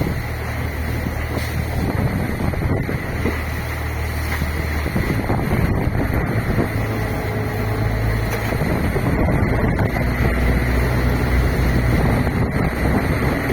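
Fishing boat's engine running, its low drone changing pitch about five seconds in and again near ten seconds, under strong wind buffeting the microphone.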